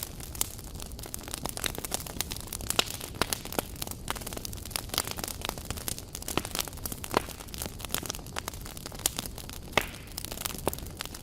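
Wood campfire burning and crackling, with irregular sharp pops and snaps over a steady low hiss of the flames.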